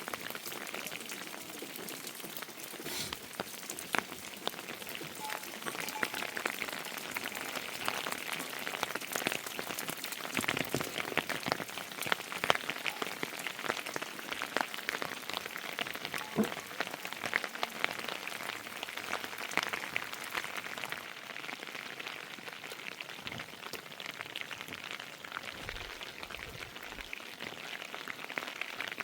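Heavy rain falling steadily, a dense hiss full of fine drop ticks.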